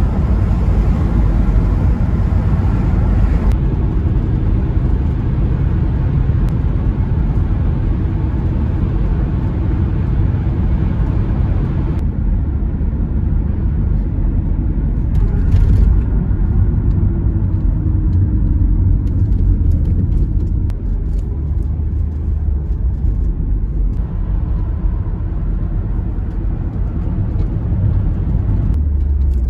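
A Volkswagen Eurovan driving on the road: a steady low rumble of engine and road noise. The tone shifts abruptly a few times, with a brief pitch glide partway through.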